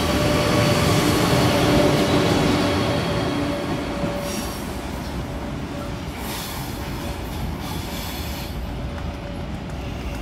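A KTX high-speed train running past along the platform and moving away. The rumble and steady motor hum are loud at first and ease off after about four seconds, with high wheel squeal twice in the middle.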